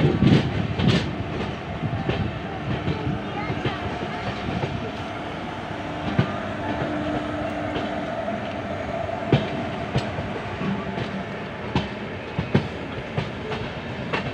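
Passenger train coaches rolling slowly on the track, heard from the open doorway, with the wheels clicking now and then over rail joints and points as the train runs into a station.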